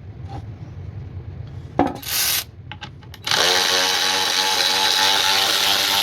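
Byczone cordless electric ratchet's motor running under load driving a fastener into wood: a short burst about two seconds in, then a steady whine from about three seconds in. The owner finds the tool short of torque for the job.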